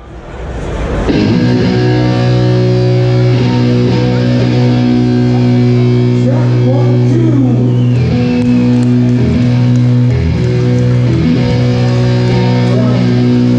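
Amplified electric guitars and bass holding loud, steady droning chords with a few sliding notes, fading in over the first second; no drums are played.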